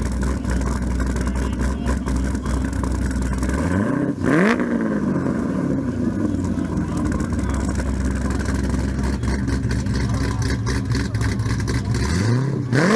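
Car engine idling with a steady low note, blipped twice: the pitch climbs quickly and falls back, about four seconds in and again near the end.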